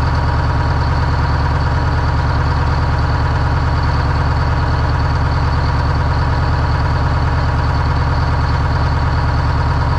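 Detroit Diesel engine of a classic monster truck idling steadily after sitting for months, with a steady high whine over the running.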